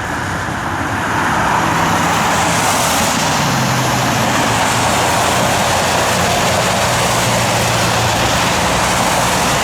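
Jet airliner engines running loudly at high power, most likely the United Boeing 737-800's CFM56 turbofans on its takeoff run. A dense roar that swells about a second in and then holds steady.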